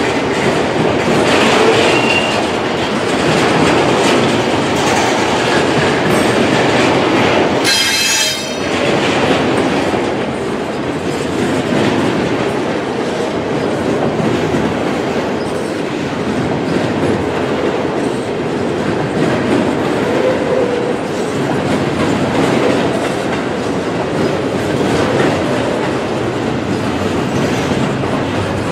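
Freight train of empty intermodal well cars rolling past, its wheels clattering steadily over the rail joints, with a brief high-pitched wheel squeal about eight seconds in.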